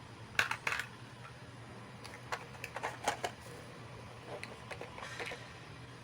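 Small hard plastic toy pieces clicking and tapping as miniature playset parts are handled, in three loose clusters of light clicks, the last ones softer.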